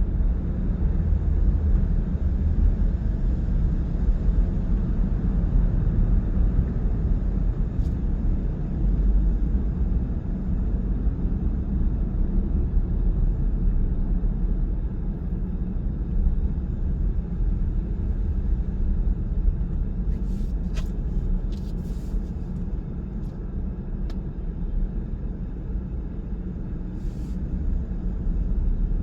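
Car driving at steady speed, heard from inside the cabin: a continuous low road and tyre rumble, with a few faint ticks about two-thirds of the way through.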